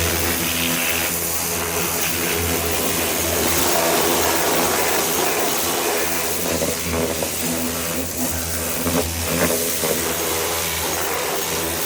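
Pressure washer (Gerni) running, its motor and pump humming steadily under the loud hiss of the water jet spraying off degreaser.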